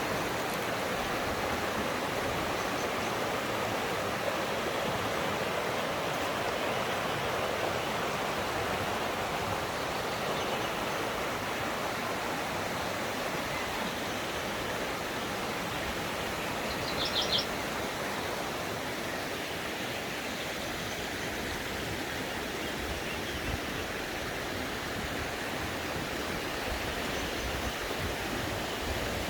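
Mountain stream rushing steadily over rocks. A little past halfway, a bird gives three quick high chirps.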